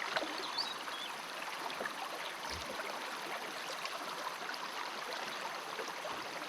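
Steady rush of running water, with small scattered ticks and splashes.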